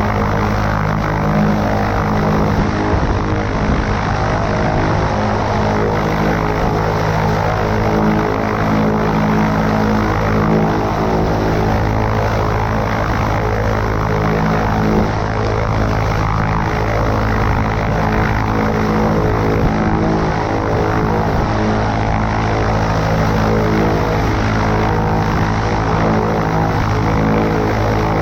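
Cessna 140A's piston engine and propeller running at a steady power setting, with a dense rush of wind and airflow noise over it.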